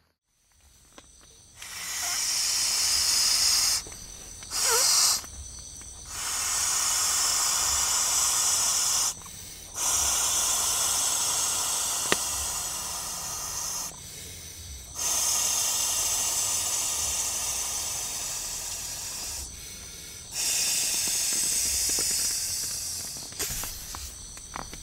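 Air being blown in long breaths into a wood-burning camp stove to fan the fire: six rushing puffs of a few seconds each, with short pauses between, and one sharp crack of the fire about halfway through.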